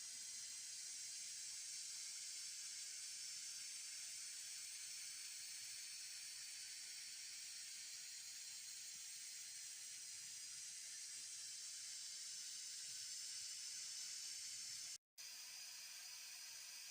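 White noise playing steadily from a phone's speaker, a soft even hiss mostly in the upper range, that drops out for a split second near the end.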